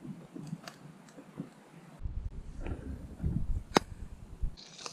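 Scattered small knocks and a low rumble of handling, with one sharp click a little before the end; near the very end, butter starts sizzling in a hot frying pan.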